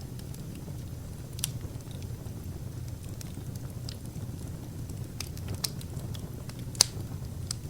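Wood fire burning: a steady low rush of flames with scattered sharp crackles and pops from the logs, one loud pop near the end.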